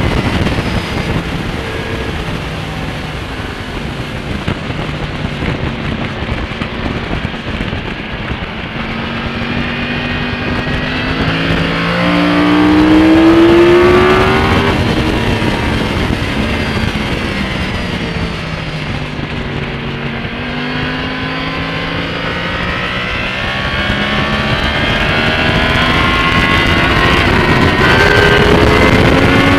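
2012 Yamaha R1 crossplane inline-four engine at speed, with Yoshimura carbon end cans and the catalytic converter removed, heard from an onboard camera with wind rushing past. The engine note rises under acceleration to its loudest about thirteen seconds in, falls slowly as the bike slows, then climbs again near the end.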